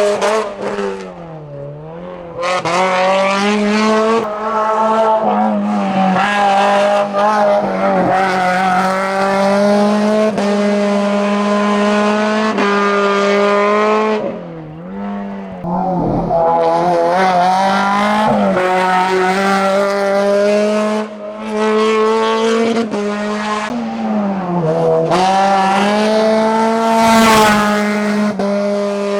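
Hillclimb race car engine held at high revs at a nearly steady pitch, dropping briefly three times as the throttle comes off or a gear changes. There is a short loud noisy flare near the end.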